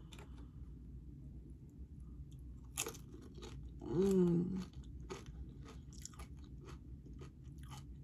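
Crunching and chewing of tortilla-chip nachos: a string of short, sharp crisp crunches, with a short closed-mouth hum of 'mmm' about four seconds in.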